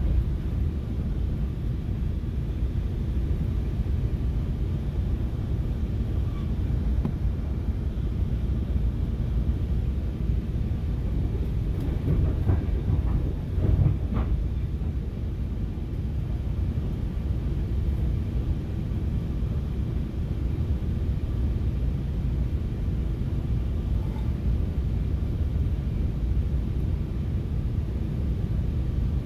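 Steady low rumble of a FrontRunner commuter train running along the rails, heard from inside the passenger car, with a brief clatter of wheels over the track about halfway through.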